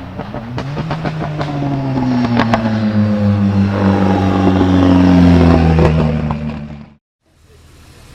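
Turbocharged Ford Sierra RS Cosworth four-cylinder accelerating hard, its engine note climbing and then slowly falling as it gets louder, with a few sharp anti-lag bangs. The sound cuts off abruptly about seven seconds in, leaving a quieter background.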